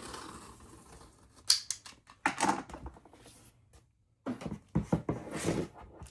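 Trimmer blade drawn through foam board in a few scraping cutting strokes, with a sharp click about a second and a half in.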